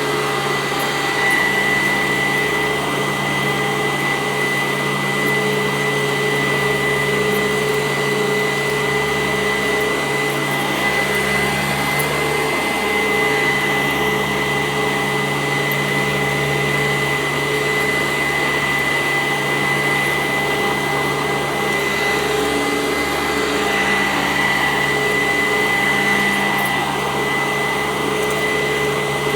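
Sanitaire SC886 commercial upright vacuum cleaner running on carpet: a steady motor whine with a constant high tone over airflow noise.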